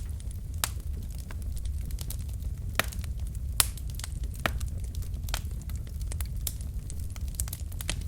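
Wood fire in a fireplace, burning logs crackling and popping irregularly over a steady low rumble of the flames, with a few sharper pops partway through.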